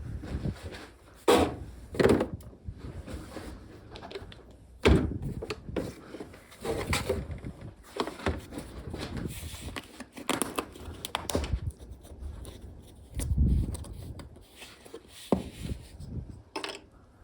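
Irregular knocks and clunks of hard objects being handled and set down, with scraping and rustling between; the sharpest knocks come about a second in, near two seconds, at five seconds and late in the middle.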